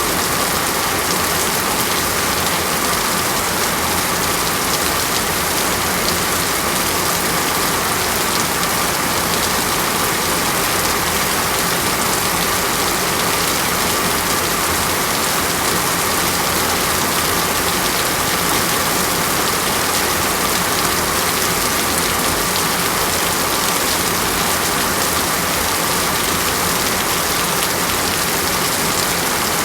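Steady, unbroken rain falling on a surface, an even hiss with no thunder or breaks.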